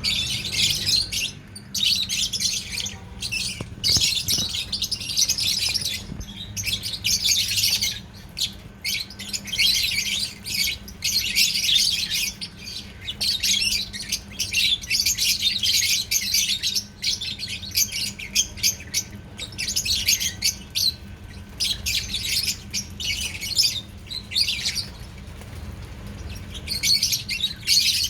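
A group of pet lovebirds chirping and squawking busily, in dense bursts of rapid high-pitched calls with short pauses between them.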